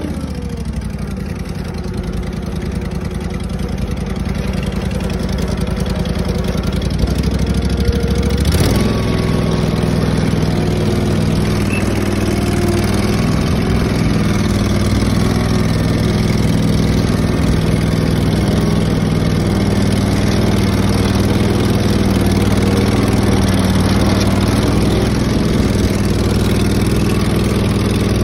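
Tractor engine running steadily as the tractor is driven, with a brief knock and a change in the engine note about eight and a half seconds in.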